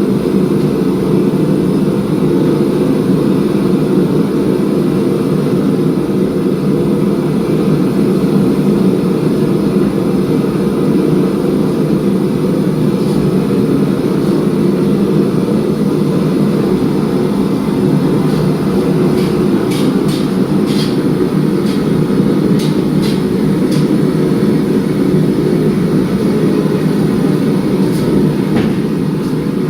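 Forging-shop equipment running with a loud, steady roar. Several sharp clicks or taps come about two-thirds of the way in, and one more near the end.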